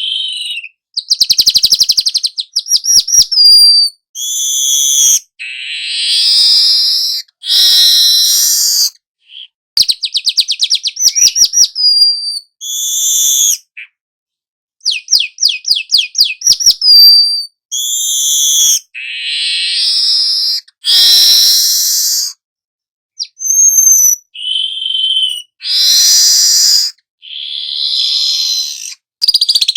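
A young manyar (weaver bird) singing continuously. Phrases of rapid dry chattering trills, each ending in a short whistled note, alternate with buzzy, hissing wheezes, with brief pauses between phrases.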